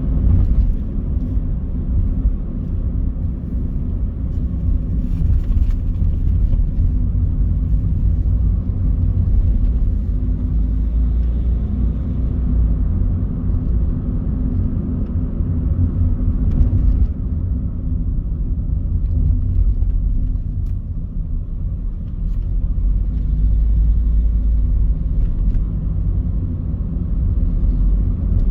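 Car driving on city roads: a steady low engine and road rumble that swells and eases slightly with the traffic.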